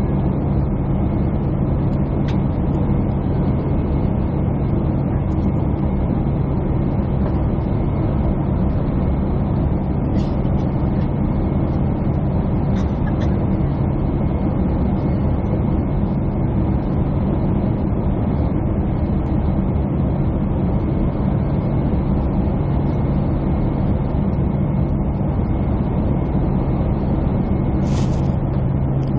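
Steady airliner cabin drone: engine and airflow noise with a strong low hum, and one short click near the end.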